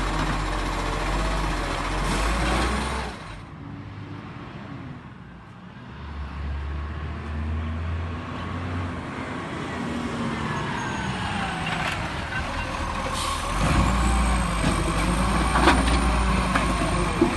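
Garbage truck's diesel engine running. Its sound drops away about three seconds in and builds again from about six seconds, louder toward the end, with a few sharp knocks near the end.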